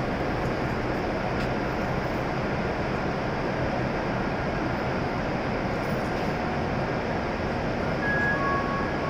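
Steady running noise of a stopped W7 series Shinkansen train standing at the platform. About eight seconds in, an electronic chime starts, alternating a higher and a lower tone, as the platform screen doors begin to open.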